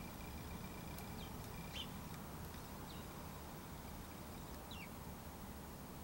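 Quiet yard ambience: small birds give a few faint, short, downward-sliding chirps over a steady low hum.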